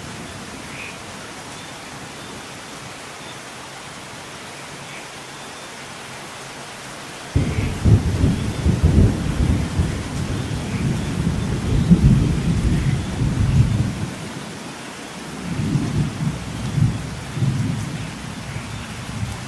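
Steady rain falling, with thunder breaking in suddenly about seven seconds in and rumbling low for several seconds, then a second, shorter roll of thunder near the end.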